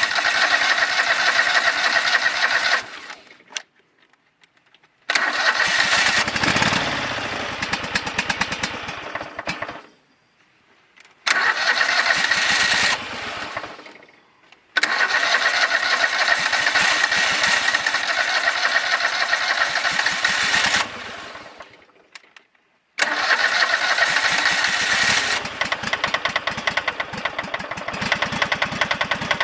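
Craftsman GT5000 garden tractor engine catching suddenly, running for a few seconds and then dying away, over and over. It has a rod knock: a worn connecting-rod bearing.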